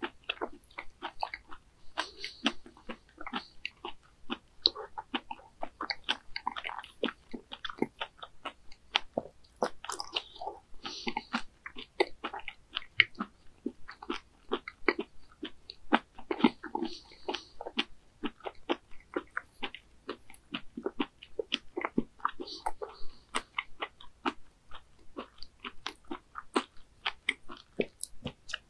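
A person chewing raw whole baby squid with the mouth close to the microphone: many wet, irregular clicks of a soft, slippery bite, with no crunch of anything hard.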